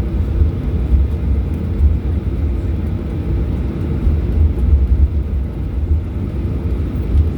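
Airliner cabin noise while taxiing: a steady, low rumble from the jet engines and the aircraft rolling along the taxiway.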